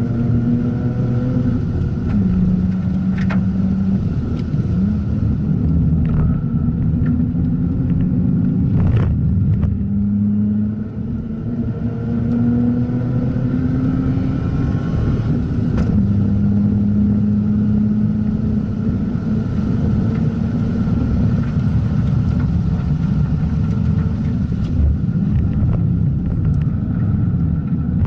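Mazda RX-8's two-rotor Renesis rotary engine running hard on a track lap, its pitch climbing and falling with throttle and gear changes, with a short dip in level about eleven seconds in when the throttle is lifted.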